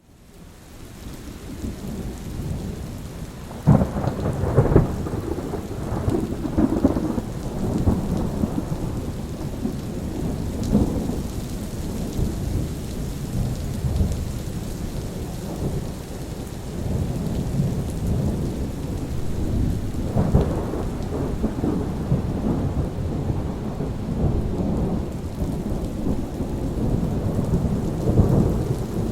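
Steady rain with rolling thunder, fading in over the first couple of seconds. A sharp thunderclap comes about four seconds in and rumbles on, with another surge of thunder about twenty seconds in and again near the end.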